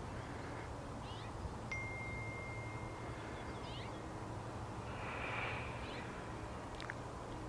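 Faint, scattered bird chirps over a steady low hum, with one long, steady high whistle-like tone about two seconds in.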